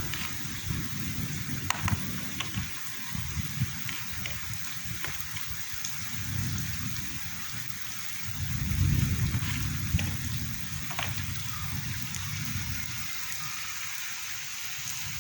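Heavy rain falling steadily, with scattered sharp drips. A low rumble of thunder swells about eight seconds in.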